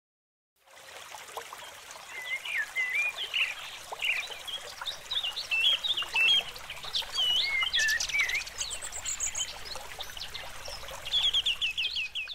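Several birds singing and chirping, with short rising and falling whistles and a quick trill near the end, over a steady outdoor background hiss; the sound comes in after a brief silence at the start.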